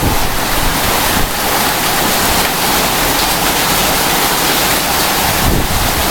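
Heavy downpour in a violent summer storm: a loud, steady rush of rain, with strong wind gusting and rumbling on the microphone.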